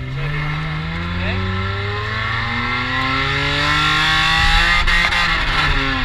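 Car engine pulling hard under acceleration, its pitch climbing steadily for about five seconds, then dropping shortly before the end as the revs come down.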